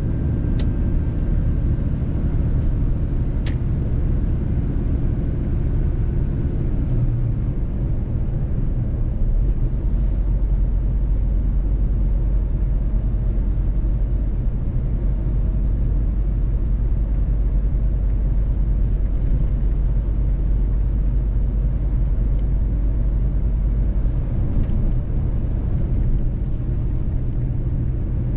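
Mercedes-Benz truck driving: a steady low engine and road rumble, its low hum shifting slightly about a quarter of the way in and again near the end. Two light clicks in the first few seconds.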